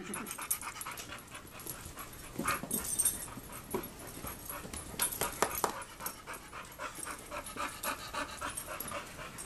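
Two dogs playing rough together: irregular scuffling and clicking with a few short dog vocal sounds.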